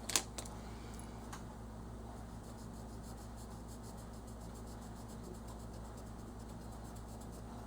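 Crayon being rubbed on paper in repeated strokes, faint against a steady low hum, with a couple of sharp clicks near the start.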